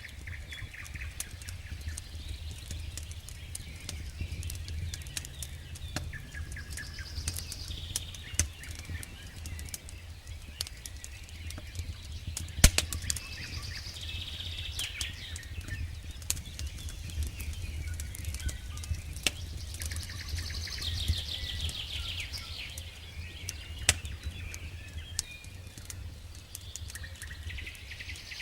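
Wood campfire crackling with scattered sharp pops, one much louder pop about midway, while birds sing in phrases every few seconds in the background, over a steady low rumble.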